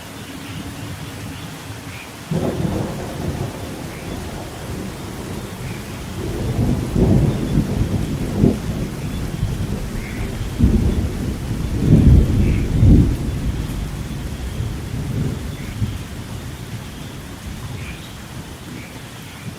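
Thunderstorm: steady rain with a long rolling thunder rumble that starts about two seconds in, swells with several louder cracks in the middle, and fades away toward the end.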